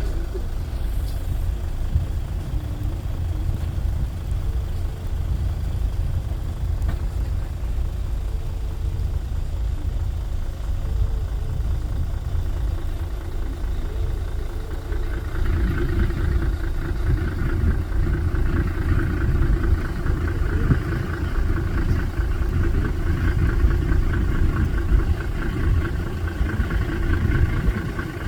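Motor vehicle engine idling, a steady low rumble; about halfway through, a higher engine drone joins and runs on, a little louder.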